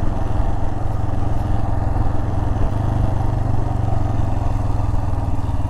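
Royal Enfield Himalayan's 411 cc single-cylinder engine running steadily under way, its pitch dipping slightly about halfway through.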